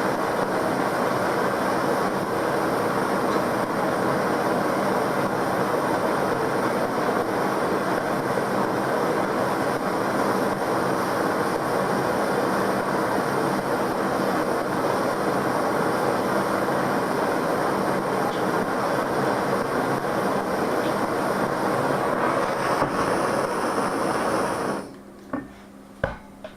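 Gas torch flame burning steadily with an even rushing hiss, shut off abruptly near the end, followed by a few sharp clicks.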